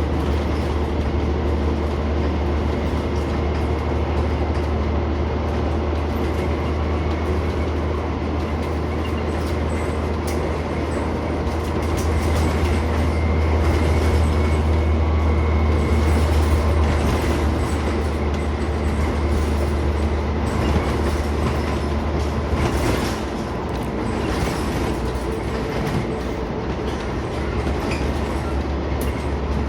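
Inside a Scania Omnicity single-deck bus on the move: steady low engine drone with road noise, a faint high whine and small cabin rattles. About 23 seconds in the engine drone drops away.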